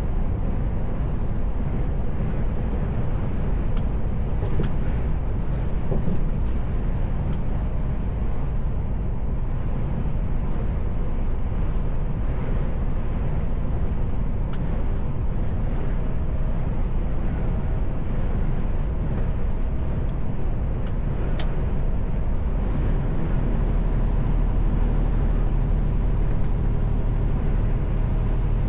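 Steady engine and road noise inside the cab of a Mercedes-Benz Actros L truck while driving, with a deep drone. There is one sharp click a little past two-thirds of the way through, and the low drone grows stronger over the last few seconds.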